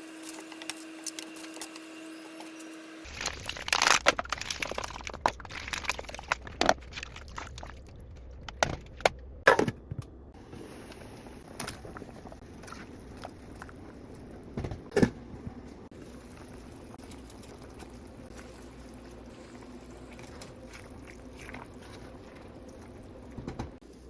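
Cooking sounds: a run of sharp clinks and knocks, most of them between about four and ten seconds in and one more about fifteen seconds in, over a steady low hum. A steady tone plays for the first three seconds and cuts off suddenly.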